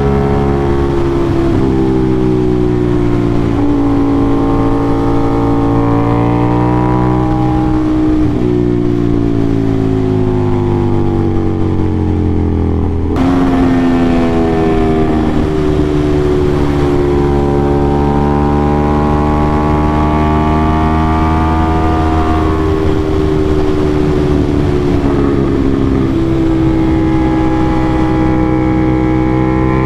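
Aprilia RS660 parallel-twin sport bike through an SC-Project CRT exhaust, ridden hard through bends. The loud engine note rises under acceleration and falls off as the rider slows for corners, several times over, with a sudden jump in pitch about halfway through.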